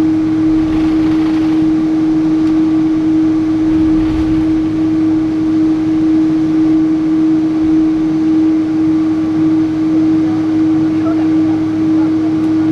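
Cabin noise inside a Boeing 777-300 airliner: a steady rush of jet engine and air noise with a strong, steady hum tone running through it.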